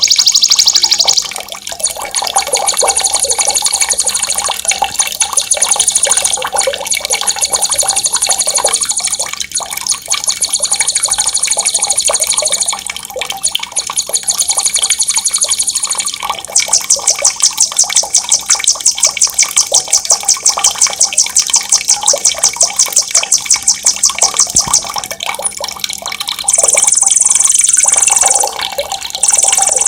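Songbird rolling trills, very fast and high-pitched, sung in long runs of several seconds each with short breaks, over a steady sound of running, splashing water.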